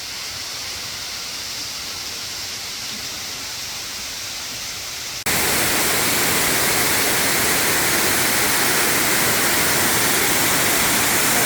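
Steady rush of a rainforest waterfall. About five seconds in it jumps suddenly to a much louder, fuller rush, as at a closer spot.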